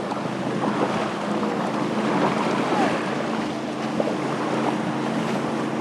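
Surf washing steadily onto a sandy beach, with a faint low steady hum underneath.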